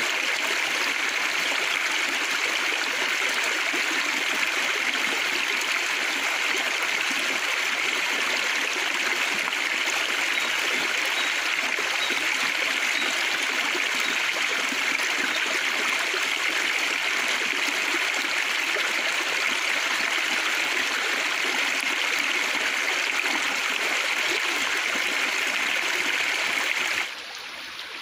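River water flowing past, a steady rushing of water with no breaks. It drops off abruptly about a second before the end.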